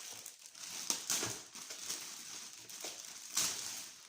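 Packaging crinkling and rustling as it is handled and pulled open, with a few sharper crackles about a second in and again near the end.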